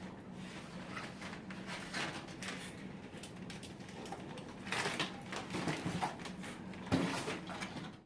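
Scattered small clicks and rustles of objects being handled over a steady low hum, with one sharper knock about seven seconds in.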